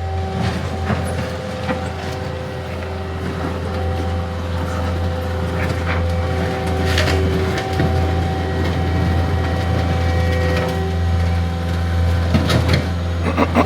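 Heavy construction machine running steadily with an engine hum and a whine, with intermittent clanks and scrapes as old asphalt is torn up, a cluster of them near the end.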